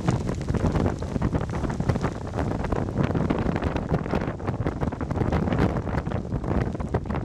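Wind buffeting the microphone in irregular gusts, with a low rumble.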